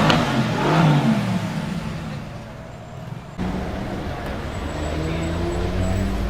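Mercedes car exhaust: engine revs die away over the first couple of seconds, then after an abrupt cut the engine runs steadily with its pitch slowly rising.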